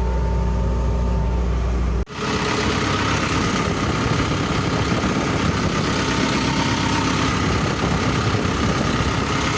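Diesel engine of a Sumitomo SH210-5 hydraulic excavator running steadily after a full service, a deep even hum. About two seconds in the sound cuts abruptly to a louder, rougher engine noise, running on steadily.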